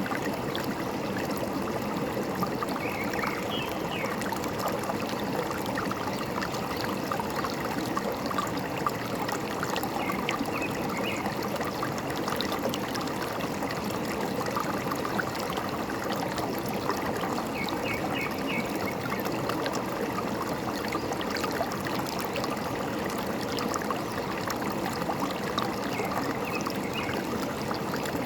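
Forest stream trickling and gurgling steadily, with a few faint, brief bird chirps now and then.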